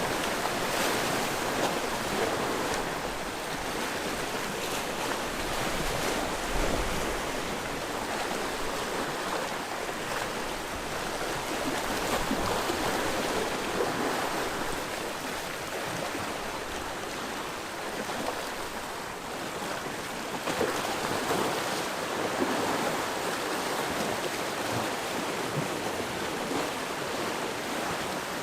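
Sea waves washing against a rocky shore, the surf swelling and easing every few seconds.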